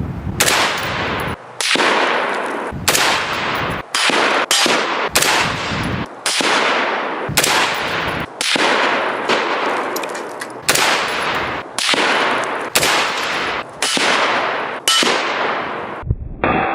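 Stag Arms AR-15 firing 5.56/.223 rounds in semi-automatic, about fifteen shots at roughly one a second. Each shot has a long echoing tail.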